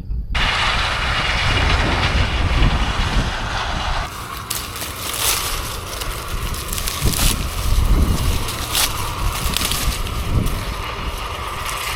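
Combine harvester running while harvesting corn: a steady mechanical din that changes character about four seconds in.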